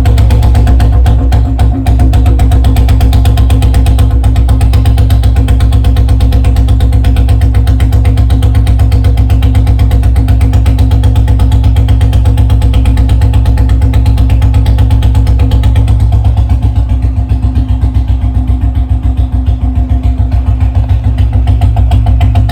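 Royal Enfield Bullet single-cylinder engine with a long-bottle silencer, running at a fast idle just after a cold start following a week standing: a steady, rapid exhaust beat that becomes more distinctly pulsed near the end.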